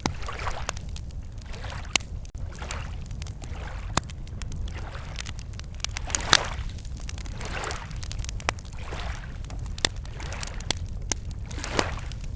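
Wood campfire crackling with scattered sharp pops, a loud one about six seconds in, over small lake waves lapping against the shore every second or two and a steady low rumble.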